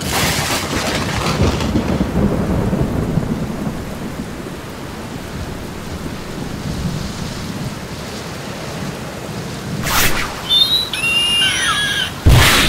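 Rain-and-thunder sound effect: steady heavy rain with a thunder rumble in the first few seconds. About ten seconds in comes a sudden burst, then short high gliding squeals, and a loud hit near the end.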